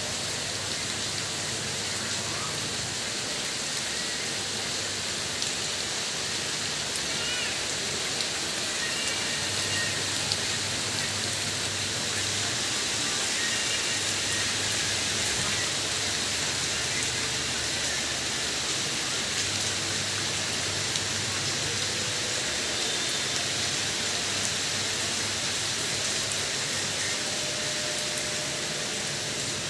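Steady rain falling: an even hiss with a few light ticks of drops.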